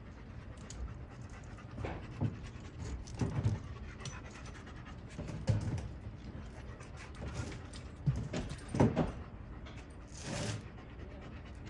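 A dog panting, uneven, with several louder bursts of breath.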